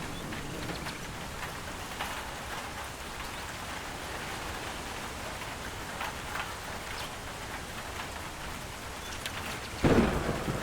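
Steady rain falling, with a sudden loud clap of thunder near the end.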